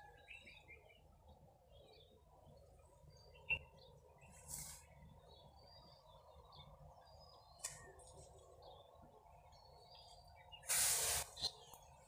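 Small birds chirping faintly on and off over steady background noise, with a sharp click about three and a half seconds in and a short, louder burst of noise near the end.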